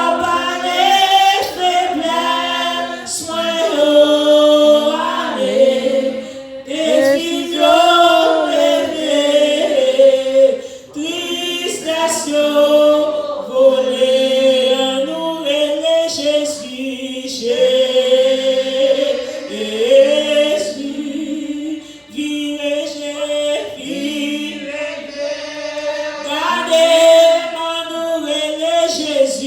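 A church congregation singing a hymn together without instruments, with women's voices prominent.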